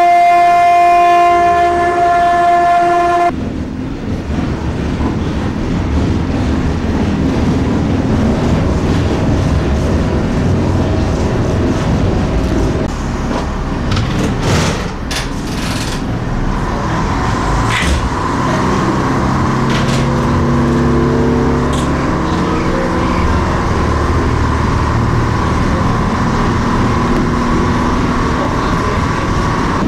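Diesel railcar horn sounding one long steady note that cuts off about three seconds in. Then the railcar runs along the branch line: engine noise and wheels on the track, a few sharp clicks around the middle and a steadier engine note in the second half.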